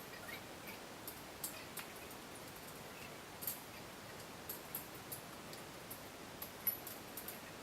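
Faint scattered clicks and taps at irregular intervals over a steady hiss, one sharper click about two-thirds of the way through.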